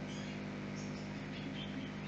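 A steady low hum, with short, faint high-pitched chirps scattered through it.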